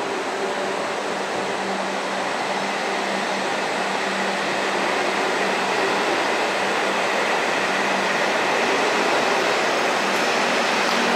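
W7 series Shinkansen pulling out of the station, its running noise building steadily as the train gathers speed past the platform.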